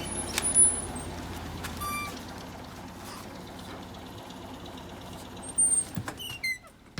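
Vintage Volvo tractor engine idling steadily in the background, with a few short high squeaks and chirps near the start and again about six seconds in.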